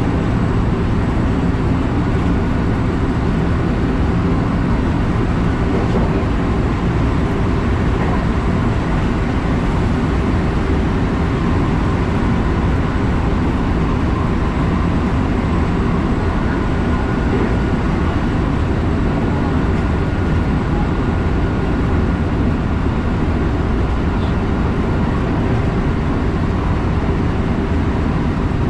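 Electric train running steadily at speed, a continuous low rumble of wheels on rail heard from inside the train. A faint thin whine comes in around the middle.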